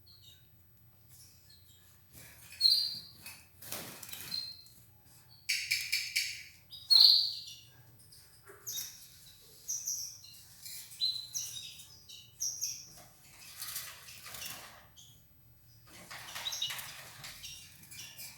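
Red ivory canary chirping in short high calls with pauses between them, starting about two seconds in, mixed with a few brief rustling sounds.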